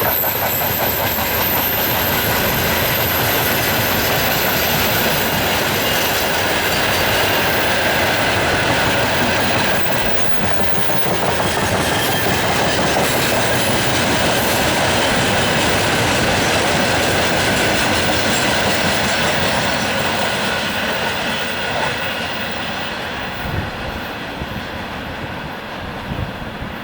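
A long freight train's wagons rolling past close by, wheels clattering over the rail joints, with some wheel squeal. The noise holds steady and then eases away over the last few seconds as the train passes.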